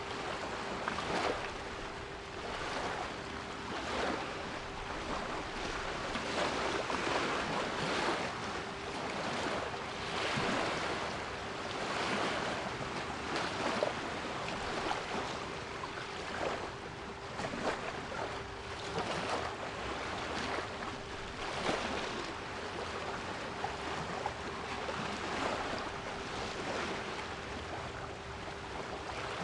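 Sea waves washing and breaking in irregular surges, with a steady 396 Hz pure tone held beneath them.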